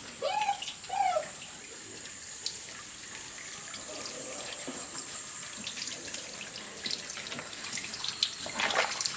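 Water running and splashing while a dog is washed, with two short whines from the dog in the first second or so.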